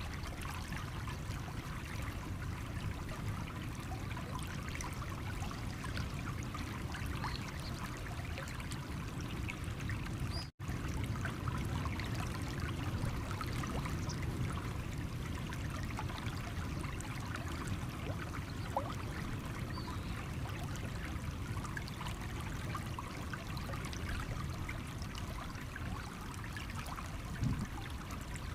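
Small stream running over stones: a steady trickling and babbling with many small splashes, broken once by a momentary dropout about ten seconds in.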